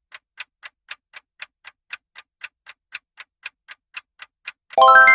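Quiz countdown-timer sound effect: clock-style ticking, about four ticks a second, ending near the end in a loud bright chime that marks time up.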